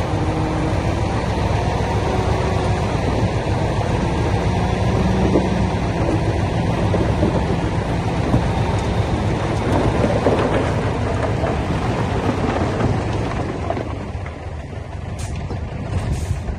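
Heavy diesel earthmoving machinery running steadily under load, a bulldozer and dump trucks working stone, easing off slightly near the end.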